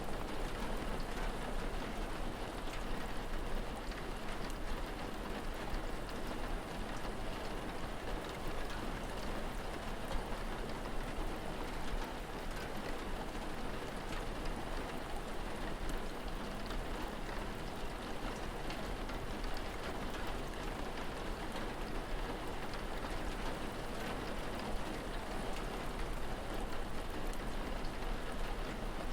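Steady rain falling: an even hiss with faint scattered drop taps over a low steady hum.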